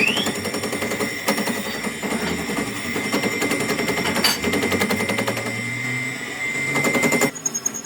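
A workshop machine running with a fast, rattling clatter and a steady high whine, cutting off suddenly near the end.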